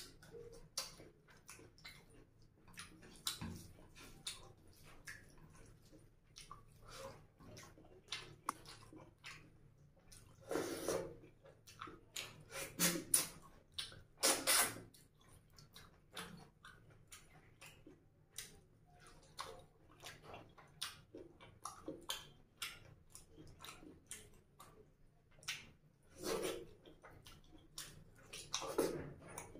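Close-miked, wet chewing and mouth smacks of a person eating mutton curry and rice by hand, with many short clicks and a few louder wet bursts at irregular intervals.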